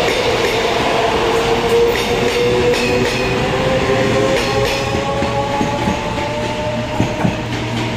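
Taiwan Railway electric multiple-unit train running past and pulling away: a steady rumble of wheels on rail with clicks over the rail joints, and traction motor whines slowly shifting in pitch. There are a couple of louder knocks near the end.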